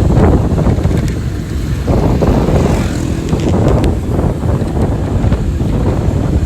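Wind buffeting the microphone, a loud uneven low rumble, with vehicle travel noise underneath.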